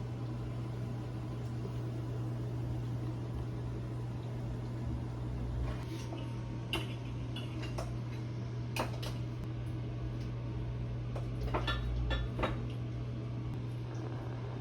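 A steady low hum with a scattering of light clicks and taps, most of them in the second half.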